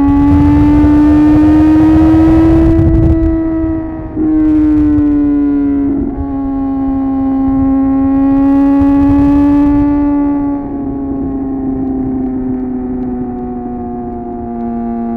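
Suzuki GSX-R 750 inline-four engine and exhaust pulling in gear, its pitch rising slowly. There are brief dips with a drop in pitch about four and six seconds in. About ten seconds in it eases off the throttle and runs quieter with a slowly falling pitch. Wind rushes over the microphone during the louder stretches.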